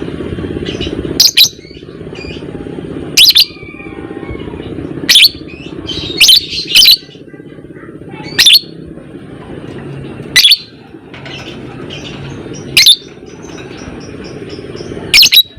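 Lovebird giving short, piercing shrieks at irregular intervals of one to two seconds, some in quick pairs, over a steady low background din.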